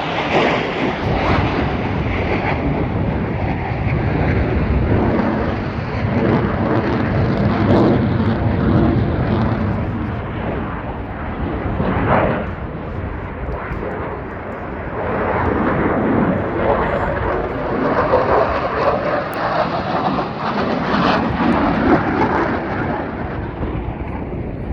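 Airplane engine noise from an aerobatic display, loud and continuous, swelling and easing several times as the aircraft passes and turns.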